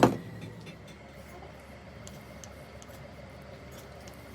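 A single loud knock right at the start, with a short low ring after it, then a few faint light ticks over a steady background hum.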